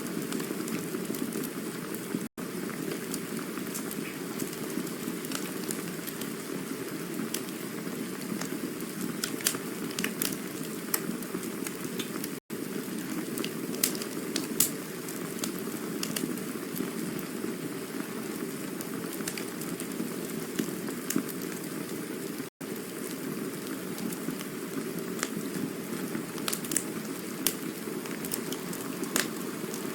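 Campfire burning: a steady low rushing hiss with scattered sharp crackles and pops from the burning wood. The sound cuts out for an instant three times, about ten seconds apart.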